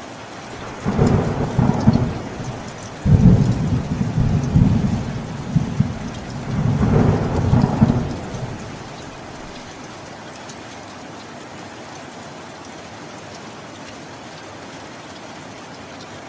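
Steady rain with a long roll of thunder starting about a second in, rumbling in several surges and dying away after about eight seconds, leaving only the rain.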